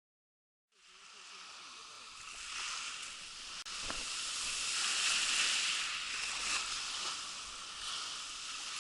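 Sea water sloshing and splashing around a kayak, a hissing wash that fades in after about a second and swells and ebbs, with a few faint knocks.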